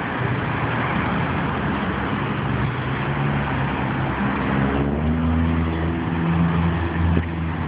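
A motor vehicle engine running with road noise, its pitch climbing from about three seconds in and then holding steady.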